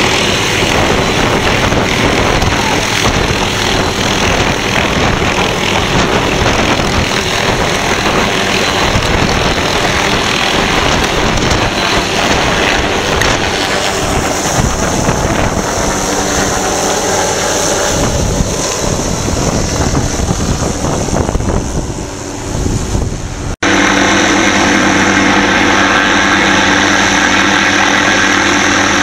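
Helicopter engine and rotor noise with heavy wind buffeting on the microphone. About three-quarters of the way through, the sound cuts abruptly to a steady, even engine drone.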